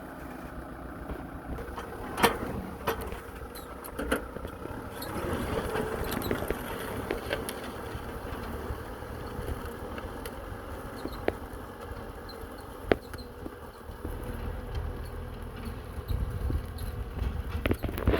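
Kubota M6040SU tractor's diesel engine running steadily under work, a low rumble that grows louder near the end, with a few sharp clicks over it.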